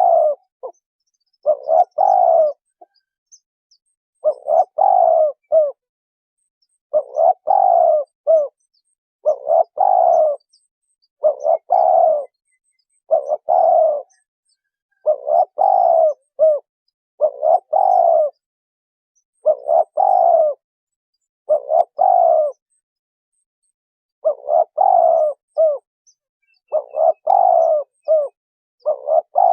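Spotted dove cooing repeatedly, close and loud: short phrases of a few low coo notes, about one phrase every two seconds, with a slightly longer pause about two-thirds of the way through.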